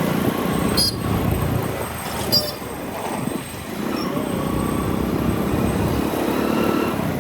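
Motorcycle riding through city traffic: its engine and the road noise run steadily. Two short, sharp, high-pitched chirps cut through, one about a second in and another a second and a half later.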